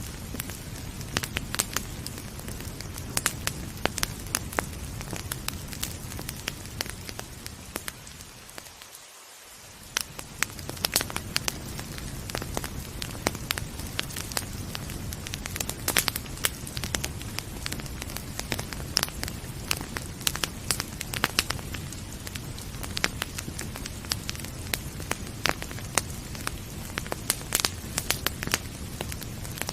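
Wood fire crackling, with frequent sharp pops and snaps over a steady rain-like hiss and low rumble. About nine seconds in, the low rumble briefly fades away, then returns.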